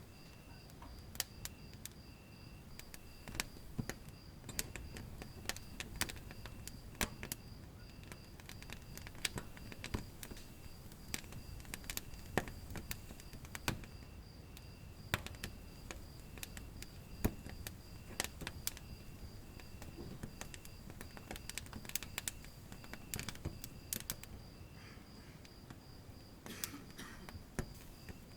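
Wood fire crackling in a fireplace, with frequent sharp, irregular pops over a low, steady rumble of flames.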